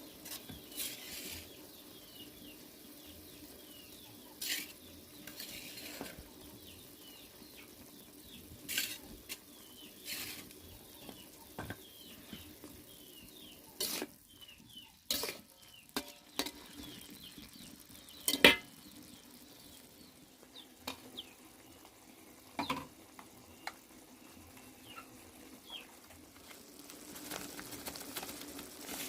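Stir-frying in a pan: a spatula scrapes and knocks against the pan in irregular strokes over a low, steady sizzle.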